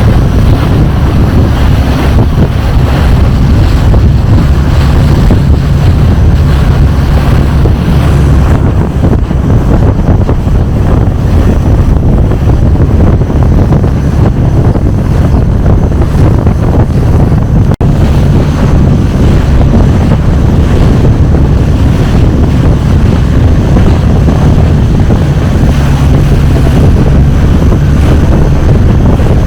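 Longtail boat engine running steadily under way, with wind buffeting the microphone.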